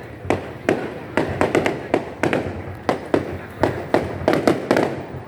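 Fireworks going off in quick, irregular succession: sharp bangs, several a second, each with a short fading tail.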